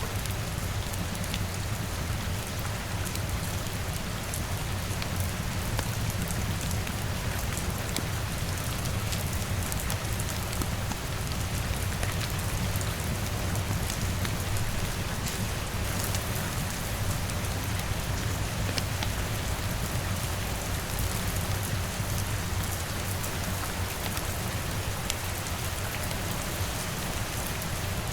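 Steady rain pattering on a window, mixed with a crackling fire giving scattered sharp ticks over a low, even rumble.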